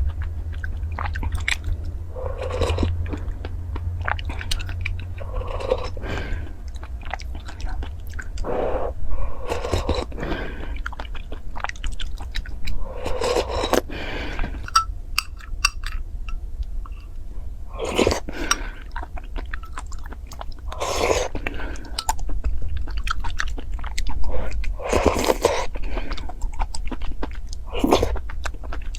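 Close-miked chewing and biting of food, with wet mouth noises and occasional crunches coming every second or two. A steady low hum runs underneath.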